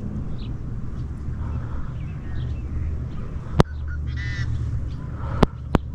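A bird calls once, a short honk about four seconds in, over a steady low rumble, with a few sharp clicks near the end.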